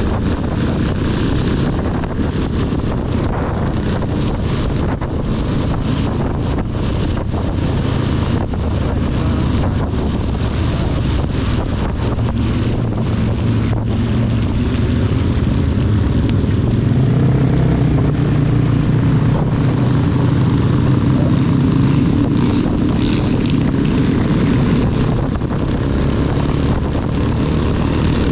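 CB 250 motorcycle engine running steadily while riding, with wind buffeting the microphone and a constant hiss of heavy rain and wet road. The engine note rises and grows stronger about halfway through, then settles.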